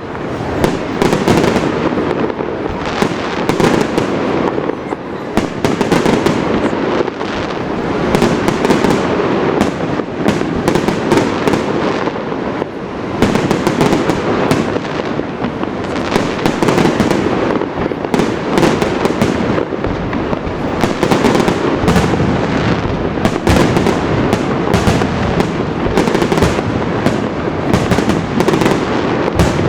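Fireworks display in full barrage: a dense, continuous stream of bangs and crackling reports, many a second, with no break.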